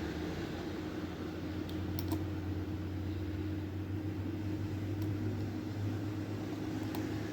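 A steady low hum, with a few faint clicks of lock picks working the pins inside a pin-tumbler lock: a pair about two seconds in, then single ones about five and seven seconds in.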